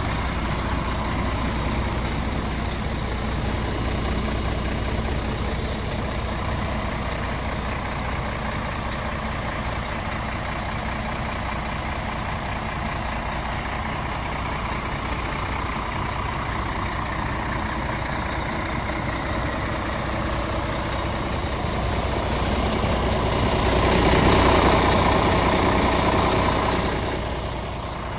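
Scania R450 tractor unit's 13-litre straight-six diesel idling steadily. It swells louder for a few seconds near the end, then settles back.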